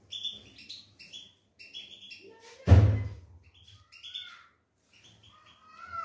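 Small aviary birds chirping in quick, high calls that jump in pitch, with a single loud thump about three seconds in.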